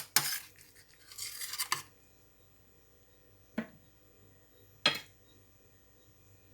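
Several sharp clinks of a utensil against a dish, with a short scraping sound about a second in.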